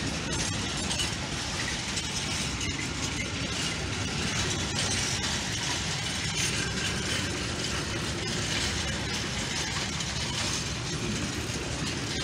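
A long freight train of covered hopper wagons rolling past at a steady speed: a continuous rumble and hiss of wheels on the rails, with a few faint clacks.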